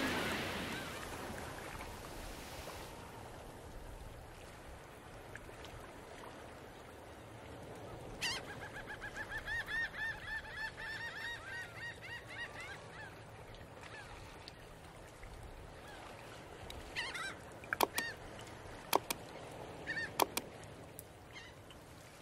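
Birds calling: a rapid run of short, repeated calls lasting about five seconds, then a few sharper, louder calls near the end, over a faint outdoor background.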